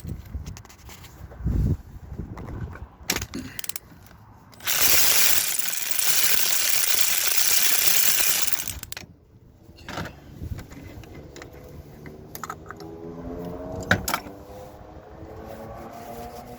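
Hand tool work on an engine: ratchet clicks and metal clinks, interrupted by a loud hiss lasting about four seconds near the middle, then more scattered clicks and one sharp knock.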